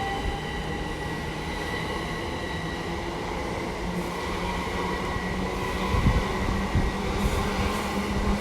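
Great Western Railway electric multiple-unit train pulling out of the station. Its motors give a steady electric whine, with one tone rising slightly in the first second, and a few low knocks come around six to seven seconds in.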